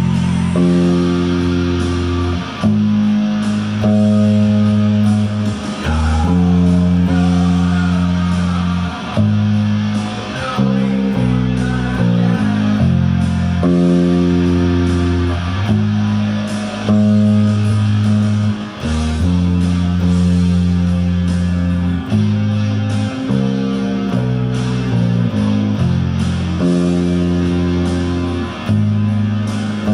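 Rock music with electric guitar and bass guitar playing long sustained chords that change every second or two, over a heavy low end.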